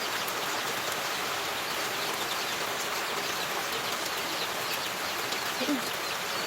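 Steady rain falling, an even hiss, with faint high bird chirps scattered through it.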